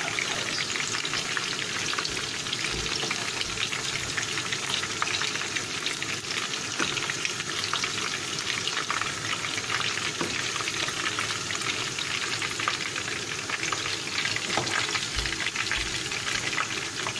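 Chicken kofta meatballs sizzling and crackling steadily as they fry in hot oil in a pan, with a spoon working among them to lift them out.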